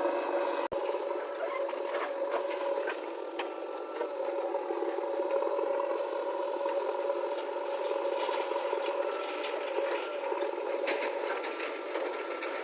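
JCB 3DX backhoe loader's diesel engine running steadily under hydraulic work, with scattered scrapes, clicks and rattles from loading. The sound cuts out for an instant near the start.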